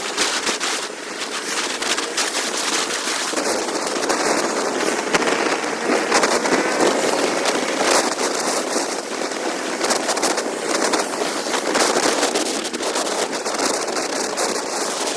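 Wind rushing and crackling over the microphone of a moving motorcycle, a steady noisy rush with constant fine crackle and the bike's engine buried underneath.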